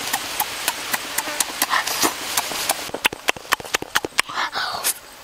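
Wet mouth clicks and lip-smacking from chewing a duck egg, about three or four a second, coming faster about three seconds in, with a short slurp near the end.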